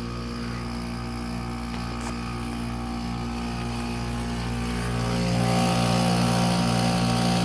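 Goodman package heat pump running in defrost mode, its compressor giving a steady hum. The unit is worn and faulty, dry-defrosting with hardly any ice on the coil. The hum gets louder and more hissy about five seconds in, then holds.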